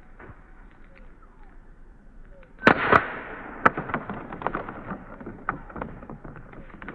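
A can bursting open with a sharp bang about three seconds in, followed by a hiss that quickly fades and a scatter of small ticks and pops.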